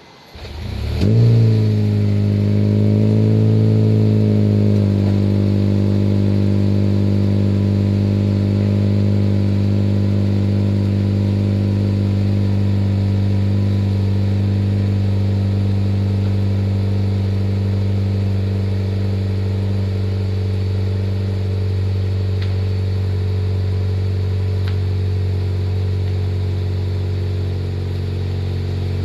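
Honda Civic Hybrid FD3's 1.3-litre four-cylinder engine cold-starting through an HKS Hi-Power aftermarket exhaust: it fires about a second in with a brief rev flare, hunts up and down in pitch for a few seconds, then settles into a steady, bassy, loud cold idle.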